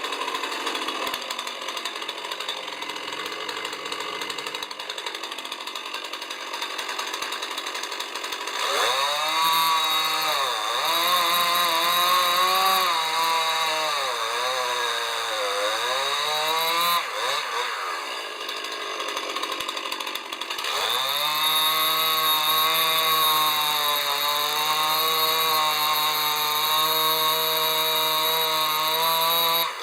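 Two-stroke chainsaw cutting oak, run up to full speed twice: first for about nine seconds, with the pitch sagging and wavering as the chain bites, then after a short lull in a steadier full-throttle run that cuts off at the end.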